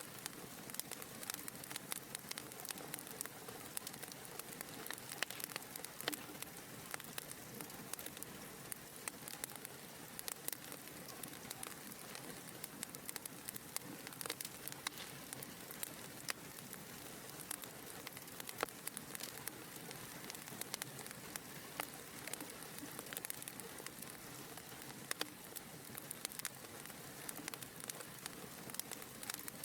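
Wood fire crackling in a fireplace: a steady soft hiss with many small, sharp pops and snaps scattered irregularly throughout.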